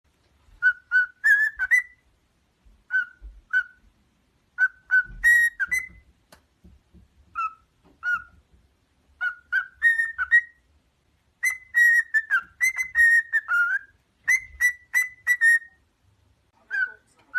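A parrot whistling short, clear notes in quick phrases of three to six, with short pauses between the phrases. Some notes slide upward.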